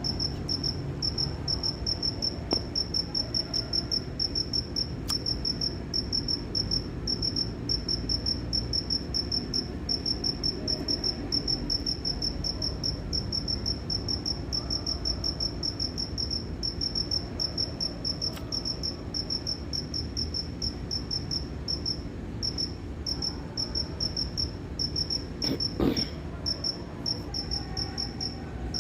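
A cricket chirping in a steady, even run of short, high-pitched chirps, several a second, over a low background hum. A single knock comes near the end.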